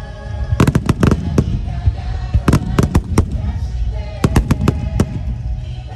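Aerial fireworks bursting with sharp bangs and crackles in three quick clusters, over music.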